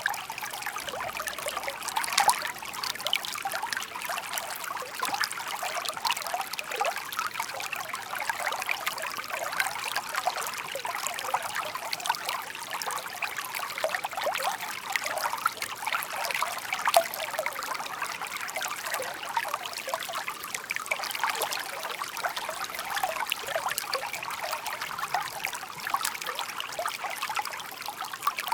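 Shallow stream babbling and trickling steadily over stones, a dense patter of small splashes.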